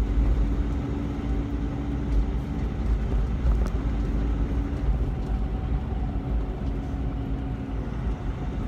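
Semi-truck cab interior while driving: a steady low engine and road rumble with a faint constant drone.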